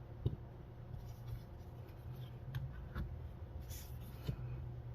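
Faint scraping and a few light clicks from nail stamping tools: polish being scraped across a metal stamping plate and a silicone stamper picking up the image.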